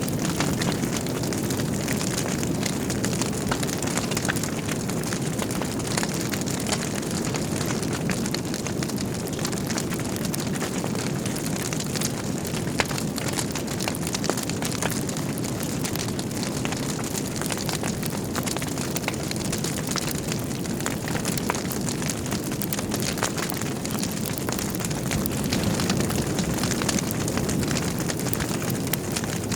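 Wood fire burning in a fireplace: a steady low rushing of flames with constant small crackles and pops, one sharper pop about halfway through.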